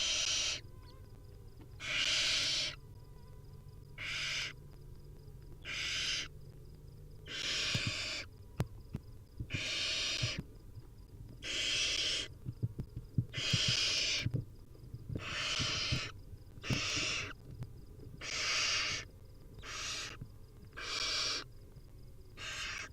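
Barn owl nestlings giving their hissing, snore-like food-begging calls, one every one to two seconds, about fourteen in all, with soft knocks from movement in the nest box underneath.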